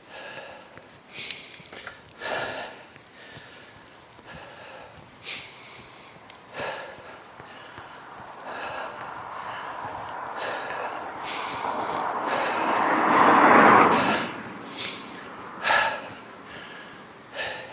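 A cyclist panting hard, short sharp breaths every second or two, while pedalling up a steep hill. A passing vehicle builds up and fades away about two-thirds of the way through, the loudest sound.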